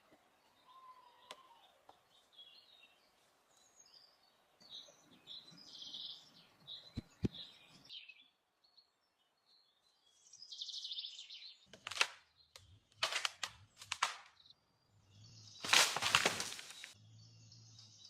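Birds chirping and calling, with two light clicks about seven seconds in. From about twelve seconds in come several short, sharp noises, the loudest a longer one lasting about a second near the end.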